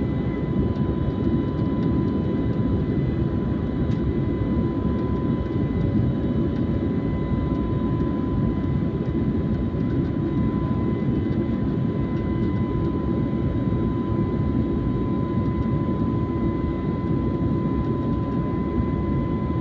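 Jet airliner's engines running steadily: an even low rumble with a thin steady whine above it, neither rising nor falling.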